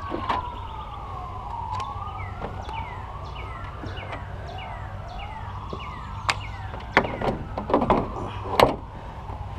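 An emergency-vehicle siren wailing, its pitch rising and falling slowly over and over, with a faster chirping pattern above it. From about six seconds in there are several sharp knocks and clatters as the car battery is handled into place, the loudest near the end.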